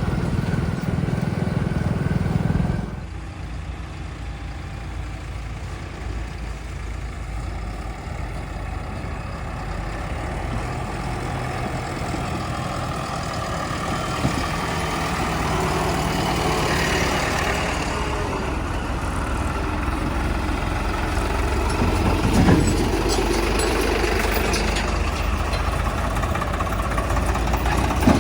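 Diesel engine of a heavy vehicle running steadily; a louder low engine drone drops away about three seconds in, and the engine noise slowly builds again afterward.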